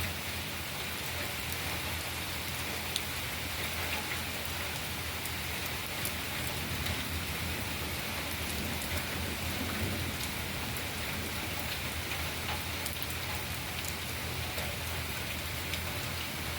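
Steady rain falling, with a few sharper drop ticks scattered through it.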